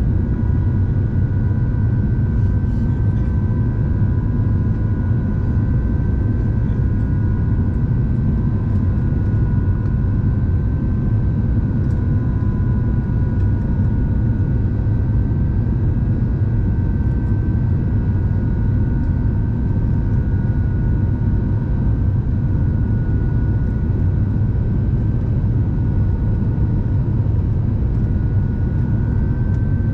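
Steady engine and airflow rumble in the cabin of an Airbus A350-900 in flight, with a steady two-tone whine from its Rolls-Royce Trent XWB engines.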